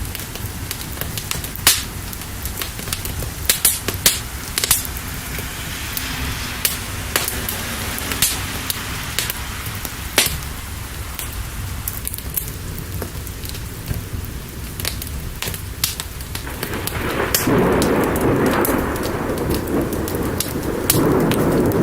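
Steady rain with a fire crackling and giving off sharp pops every second or so. About three-quarters of the way through, a louder rolling rumble of thunder swells up and continues.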